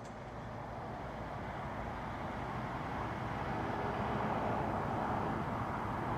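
Boeing 777's GE90 jet engines heard as a steady rushing roar that grows slowly louder.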